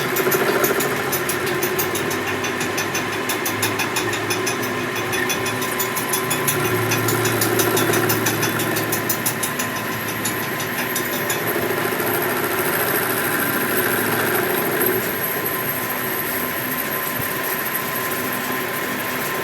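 A machine running steadily, with a fast even ticking over it that stops about eleven seconds in.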